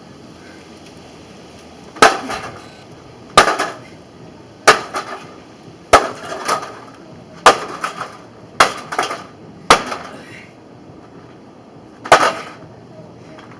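Hammer blows smashing a microwave oven: eight hard strikes about a second apart, several followed by a short clatter of loose parts, with a longer pause before the last blow.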